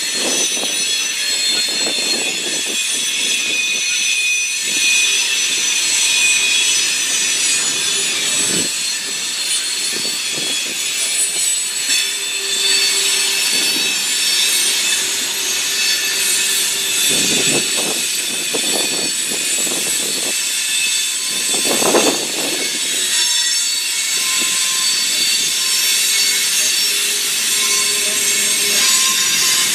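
Freight cars rolling past on steel wheels, with high steady wheel squeal throughout and a few heavy clanks from the passing cars.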